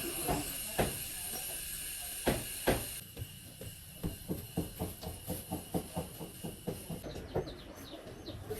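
Light repeated taps or clicks from hand work on a four-wheeler, a few sharper knocks at first, then a steady run of about three a second. Near the end a bird starts chirping in short falling notes.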